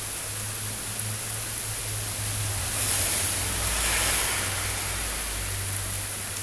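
Steady hiss of heavy rain over a low, steady hum. In the middle, a rushing swell with a low rumble builds and fades over about two seconds.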